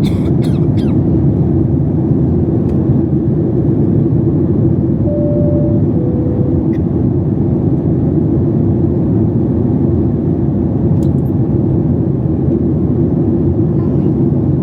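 Steady, loud engine and cabin noise inside a Boeing 737 MAX 8 airliner, a deep rumble with a steady hum. A few clicks come at the very start. About five seconds in, a two-tone high-low cabin chime sounds once.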